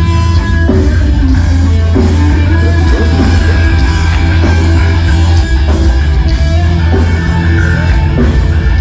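Loud rock music with electric guitar, playing continuously over a heavy, steady bass.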